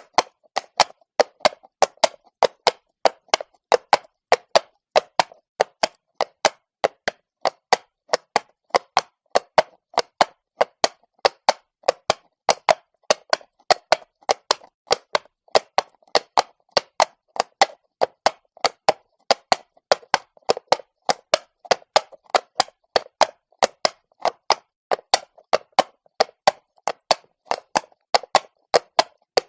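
Horse's shod hooves striking stone cobbles at a walk: sharp, hard clops, about three a second in an uneven rhythm.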